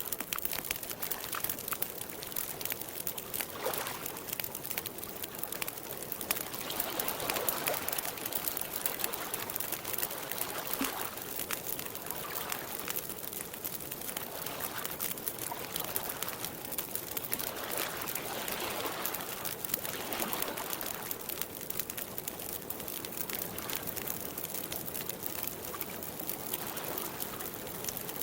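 Campfire crackling with small sharp pops, over water lapping in soft, uneven swells every couple of seconds.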